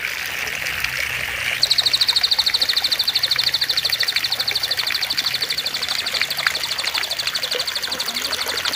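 Water trickling, then about one and a half seconds in a bird starts a long, rapid, even trill of high notes that runs on over the water sound.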